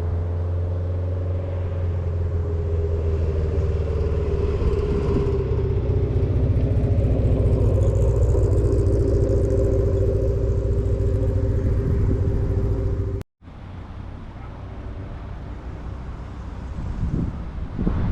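A car engine running steadily as the car moves slowly past, its pitch drifting slightly and growing louder toward the middle. It cuts off abruptly about 13 seconds in, then a quieter engine continues.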